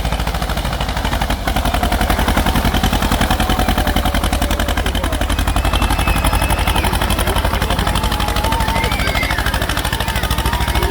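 Tractor diesel engine running close by, its exhaust beating in rapid, even pulses.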